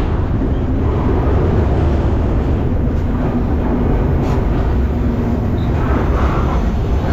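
Moving freight train running steadily: a loud, even rumble and rattle of the cars and wheels, heard from close by.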